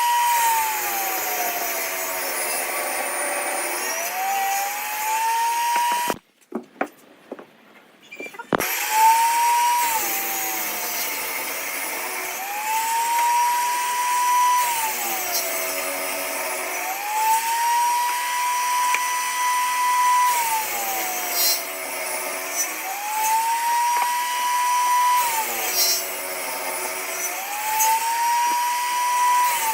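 High-speed electric power tool working wood: its motor whine holds one pitch, then sags for a few seconds as it bites into the work and rises back as the load comes off, about five times over. The sound drops out for a couple of seconds, with a few clicks, about six seconds in.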